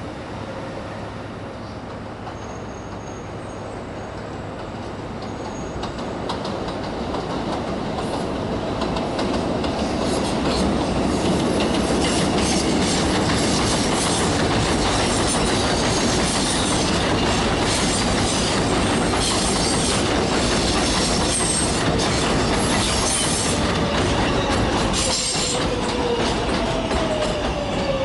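A Kawasaki R143 subway train approaches and runs into an elevated station. Its wheels clatter and squeal on the rails, growing louder over the first several seconds and staying loud. Near the end a falling tone is heard as the train slows.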